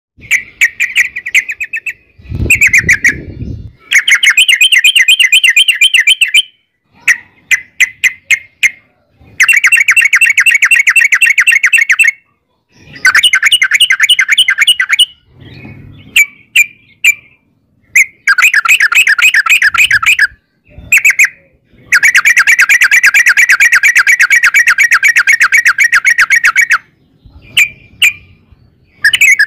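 Yellow-vented bulbul singing long, rapid chattering trills, each lasting several seconds, broken by short pauses and a few quick separate chirps. A brief low rumble sounds under the song about two seconds in.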